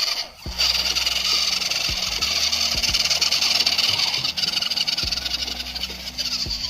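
Radio-controlled scale truck's electric drive motor and gearbox whining steadily as it drives off-road, with a brief drop just after the start and a few light knocks.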